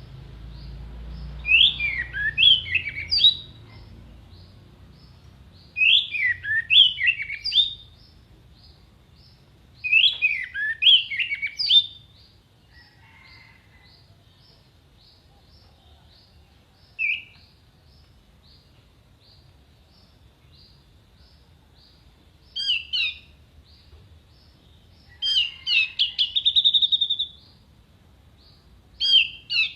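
Orange-headed thrush singing: bursts of quick, sharp whistled notes every few seconds with pauses between, the last phrases ending in a held high trill.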